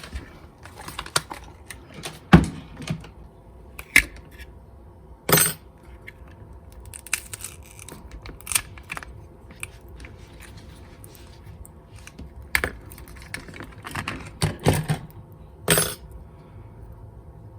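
Irregular clicks, taps and light clatter of small hard objects being handled and set down, with a few louder knocks.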